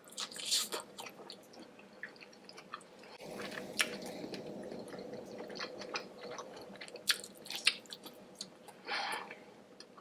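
Close-miked wet chewing and biting of deshelled seafood boil, squishy mouth sounds broken by sharp smacking clicks.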